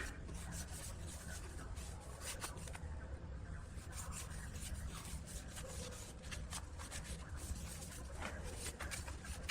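Wood being worked by hand: irregular rubbing and scraping strokes, like sanding or rasping, over a low steady hum. A sharp click comes right at the start.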